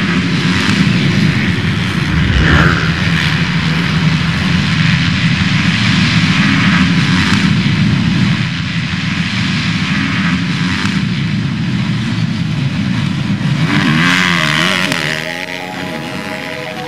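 Motocross bike engines running hard on the track, the pitch rising and falling as riders rev through the gears, with a clear rise-and-fall of revs near the end.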